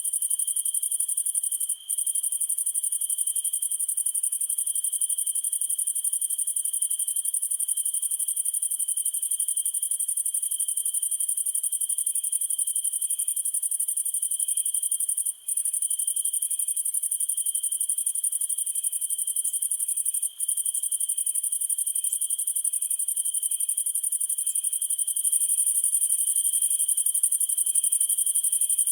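Night insect chorus of crickets: a steady trill and a dense high hiss of insects, with another insect chirping in an even, slow rhythm beneath it. The sound drops out for an instant three times.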